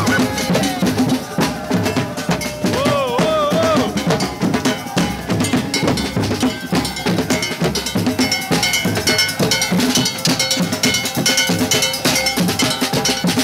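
Fast, dense percussion with bright metallic bell-like strikes, like a cowbell, played without a break.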